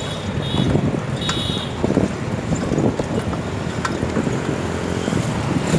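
Road traffic noise with wind buffeting the microphone, and a couple of short high-pitched beeps in the first second or two.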